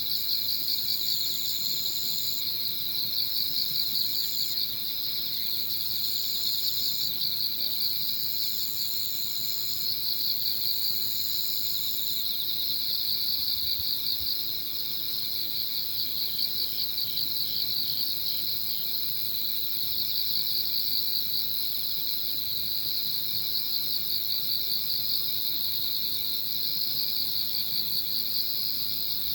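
Evening chorus of crickets and other autumn insects: a dense, steady, shrill trilling, with a higher trill coming in repeated bouts of about a second during the first twelve seconds.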